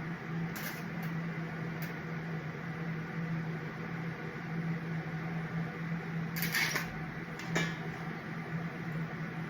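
TIG welder running during welding: a steady electric hum with hiss, broken by a few short crackling hisses, the longest about six and a half seconds in.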